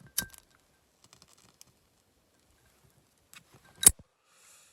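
Sharp clicks and light taps: one sharp click near the start, a quick run of faint taps about a second in, then a louder click near the end followed by a brief soft hiss.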